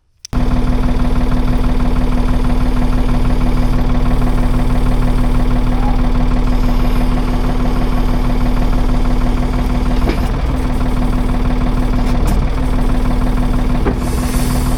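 1978 Ford 555 backhoe's diesel engine running steadily and loud, starting abruptly right at the beginning, with a few faint clicks around ten and fourteen seconds in.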